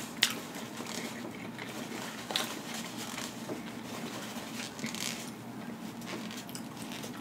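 Close-miked chewing with the mouth closed, with a few soft wet mouth clicks a second or two apart over a faint steady hum.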